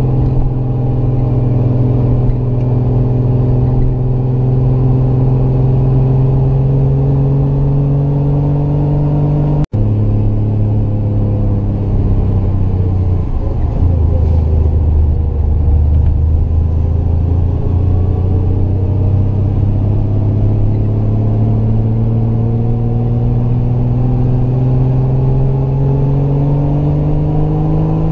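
Triumph GT6 Mk2's 2.0-litre straight-six engine pulling uphill under load. The sound cuts out for an instant about a third of the way in. The revs then fall low through a bend and climb steadily as the car accelerates out of it.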